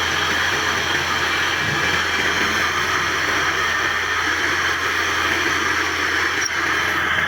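Steady machine noise with a constant low hum, unchanging throughout.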